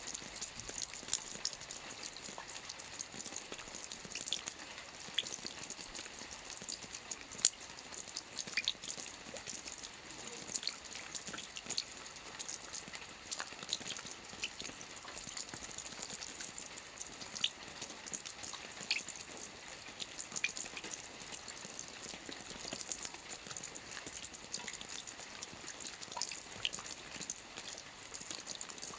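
Steady rain with many separate drops ticking irregularly on a hard surface over an even hiss.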